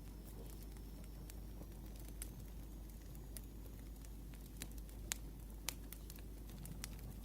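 Wood fire crackling faintly under a steady low rustle, with scattered sharp pops, the strongest a little past five seconds and again near six seconds.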